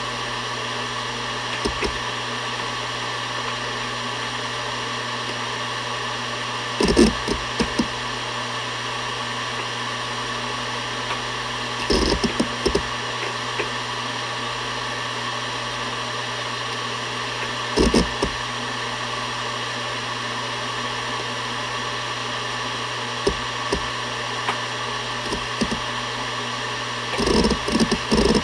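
Seagate Barracuda ES.2 ST31000340NS 7200 rpm hard drive spinning with a steady hum and whine. Its heads seek in short bursts of clicks three times, then go into rapid, continuous seeking near the end.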